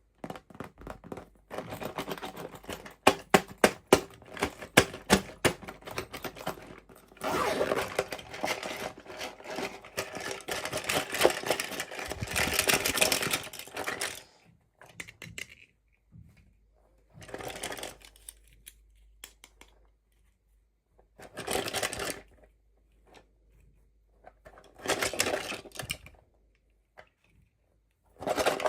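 Hands opening and handling small plastic toy packaging. First comes a quick run of sharp clicks and taps, then several seconds of steady crinkling and tearing, then four short bursts of rustling with pauses between.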